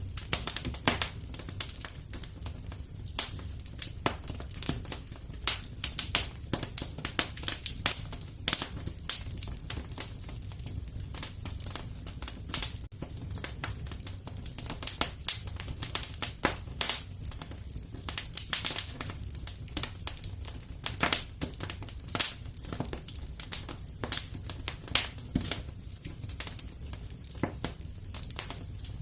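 Fireplace fire crackling: many irregular sharp pops and snaps over a low, steady rumble of burning wood.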